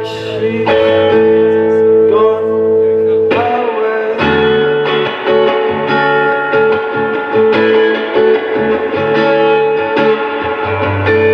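Guitar playing an instrumental passage of a song between sung lines, held chords changing every few seconds.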